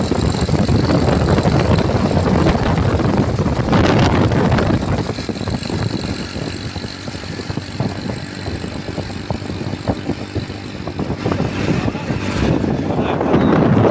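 Motorcycle running at speed, the engine noise mixed with wind rushing over the microphone, swelling louder near the end.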